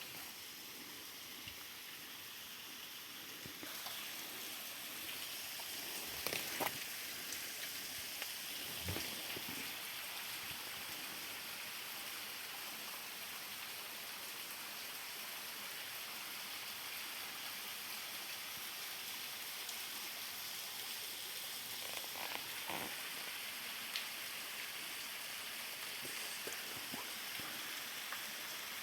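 Steady rushing hiss of a river's running water, with a few soft knocks scattered through it.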